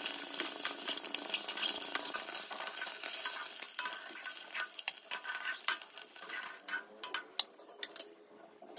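Whole boiled eggs sizzling in hot oil in a pan, with a steel ladle scraping and clinking against the pan as they are turned and lifted out. The sizzle fades over the second half, leaving a few sharp clinks near the end.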